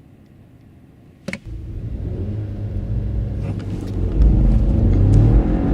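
A sharp click about a second in, then a car engine pulling hard from a standstill under full acceleration, rising in pitch and getting steadily louder, with a further jump in loudness about four seconds in.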